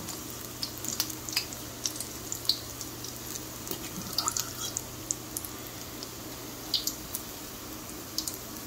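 Battered dandelion fritters deep-frying in hot vegetable oil in a wok: a steady sizzle with scattered crackling pops, over a steady low hum.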